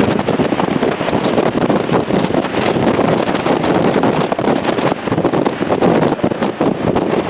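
Strong typhoon wind blowing hard and buffeting the microphone: a loud, unbroken rushing noise with constant irregular gusty crackle.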